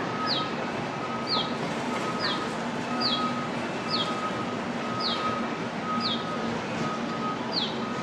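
A bird calling a short, high, falling note over and over, about once a second, over a steady low hum.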